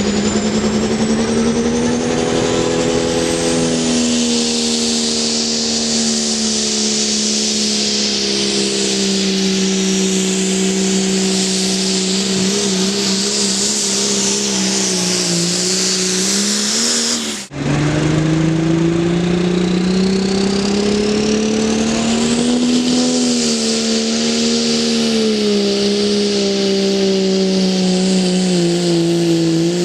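A pulling truck or tractor engine running hard at high revs under load on the pull track, its pitch slowly sagging and recovering. A thin high whistle rises over the engine now and then. The sound cuts off abruptly about 17 seconds in and the engine comes straight back at full power.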